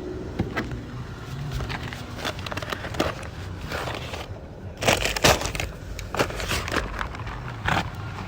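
Takeout bags being handled, with rustling and a string of sharp knocks and clicks over a low rumble, the loudest cluster about five seconds in.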